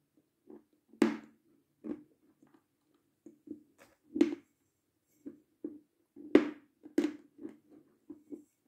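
Close-up chewing of a stuffed mouthful of dry, crumbly food with the mouth closed: soft wet clicks broken by a few sharp crunches, the loudest about a second in, near four seconds, and twice between six and seven seconds.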